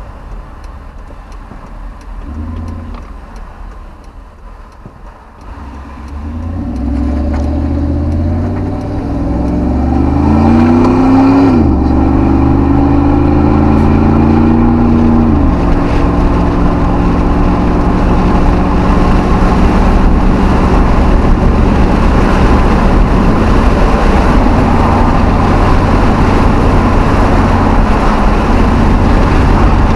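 V8 Hemi pickup truck accelerating: the engine's pitch climbs, drops at two upshifts about halfway through, then settles into a steady, loud cruise.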